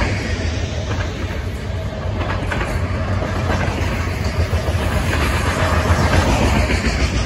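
CSX freight train's loaded garbage cars rolling past: a steady rumble of steel wheels on rail, with a few faint clicks as wheels cross rail joints.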